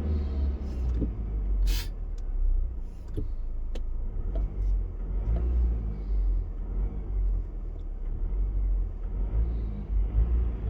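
Car engine idling with a steady low rumble, with a few short clicks over it in the first few seconds.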